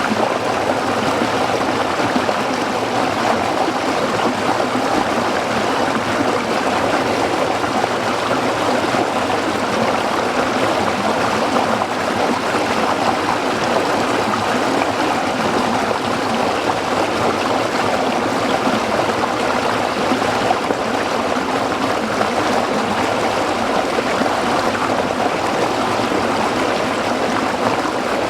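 A small stream flowing and splashing over rocks, a steady even rush of water with fine gurgling and no breaks.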